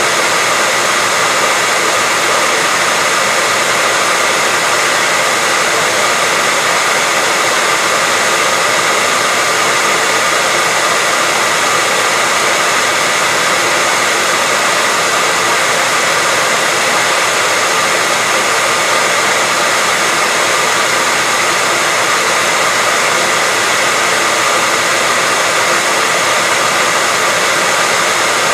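Hair dryer blowing steadily: an even, unchanging rush of air with a faint whine from the motor.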